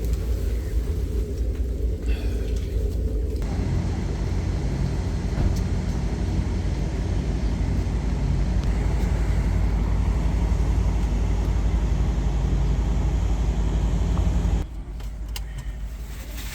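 Steady low rumble of a passenger train's ride heard inside the coach. The noise grows fuller about three seconds in, then drops suddenly near the end.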